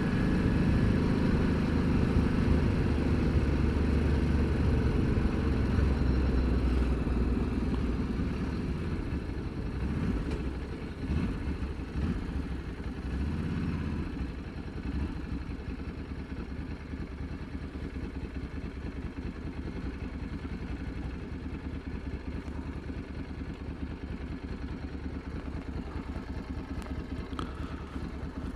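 Ducati Multistrada motorcycle engine running as it is ridden. It is louder for the first several seconds, rises briefly a few times in the middle, then runs more quietly and steadily.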